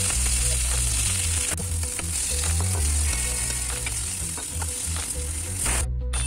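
Raw chicken pieces sizzling in hot oil in a stainless steel wok, with a wooden spoon stirring and now and then clicking against the pan. The sound drops out briefly near the end.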